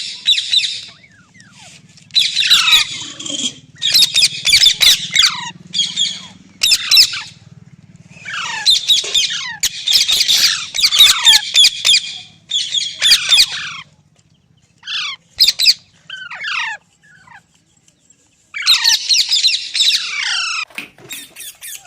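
Green ringneck parrot screeching in repeated harsh bouts of a second or two each, with short falling squawks between. Its calls thin to a few single notes with quiet gaps about two-thirds of the way through, then another screeching bout near the end.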